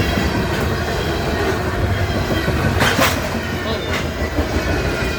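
Train running past on the rails, a steady rolling rumble of steel wheels with two sharp knocks about three and four seconds in.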